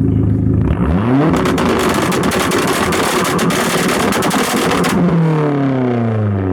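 A car engine revved from idle: it climbs about a second in, is held high for about four seconds with a rapid crackle, then falls back toward idle.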